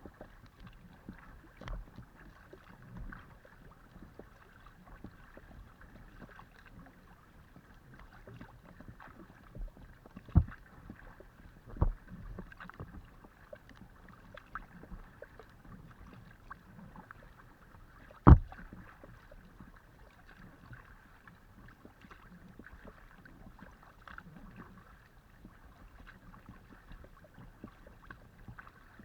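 Kayak being paddled: paddle strokes and water splashing along the hull of a Decathlon Itiwit x500 kayak. There are a few sharp knocks, the loudest about eighteen seconds in.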